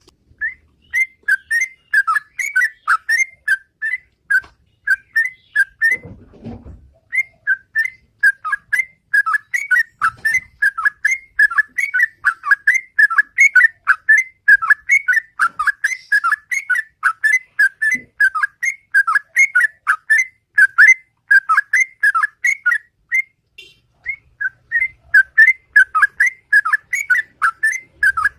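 Sooty-headed bulbul (trucukan) singing its 'ropel': a long run of quick, repeated whistled notes, about three a second, with a short pause about six seconds in and another near the end.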